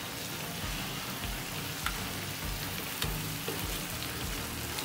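Chicken and masala sizzling steadily in a steel wok as cashew nut paste is poured in.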